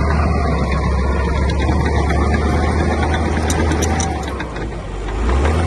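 Heavy diesel construction machinery running steadily with a deep engine drone, with a few short clanks about three and a half seconds in; the engine eases briefly near the end, then picks up again.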